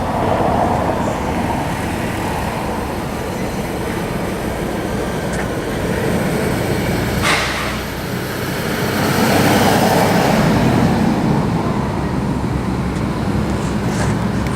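Indian Big Base Scout motorcycle's flathead V-twin engine running, swelling louder twice, with a short hiss about seven seconds in.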